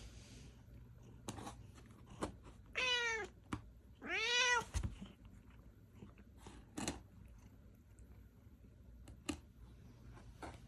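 A house cat meowing twice, about three seconds in and again just after four seconds; the second meow is longer, rising and falling in pitch. A few short clicks and rustles come before and after.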